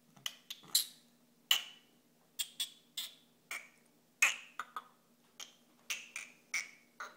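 A person making a run of sharp clicks and pops, a dozen or more at an uneven pace, each with a short pitched ring after it.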